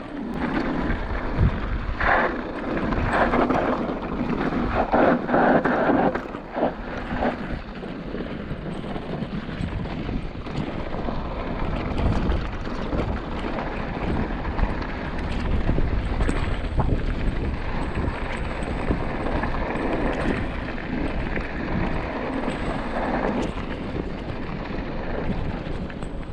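Wind buffeting the microphone while riding: a steady rushing noise, with louder gusts in the first several seconds.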